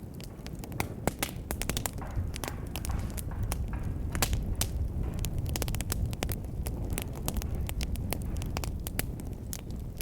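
Fire in a fireplace crackling, with many irregular sharp pops over a steady low rumble of the flames.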